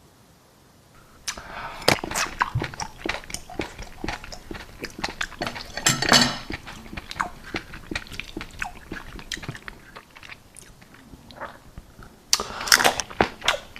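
Close-miked ASMR eating: a run of bites and chewing with many sharp wet mouth clicks, starting after about a second of quiet, with a louder bite about six seconds in and another near the end.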